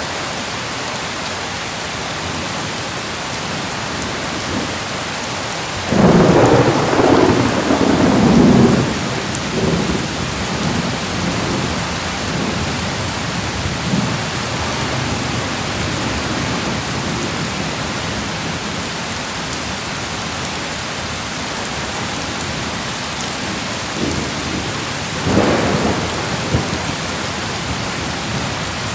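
Steady, heavy rain with thunder rolling twice: a long, loud rumble about six seconds in lasting some three seconds, and a shorter one near the end.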